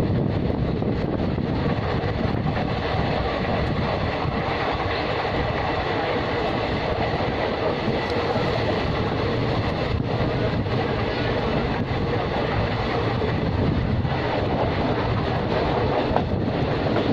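Passenger train running along the track, heard from the doorway of the moving coach: a steady rumble of wheels on rails with a few faint clicks.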